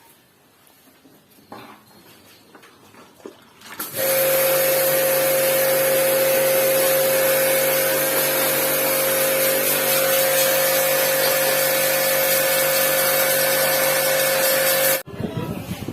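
Electric high-pressure washer running steadily, giving a strong even whine over a hiss of water spray while it washes the air conditioner's indoor unit. It starts suddenly about four seconds in and cuts off abruptly near the end.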